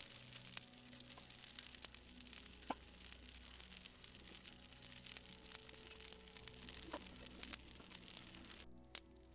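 Birch-bark tinder burning in a brazier: a dense crackle with many small pops, stopping abruptly near the end.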